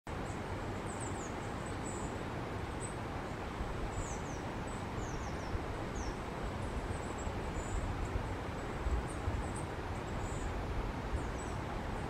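Small songbird giving short, very high, thin calls, each a quick falling note, scattered every second or so over a steady low rumble.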